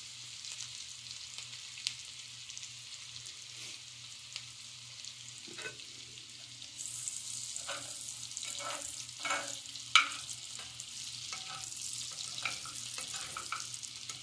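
Sliced onion sizzling in hot bacon fat in a small cast iron skillet. A little before halfway a metal spatula starts stirring and scraping the pan, and the sizzle grows louder, with scattered scrapes and knocks and one sharper knock about two-thirds through.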